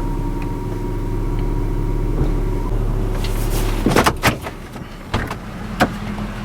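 A truck engine idling with a steady low hum, then a few sharp clicks and knocks from about four seconds in as the hum drops.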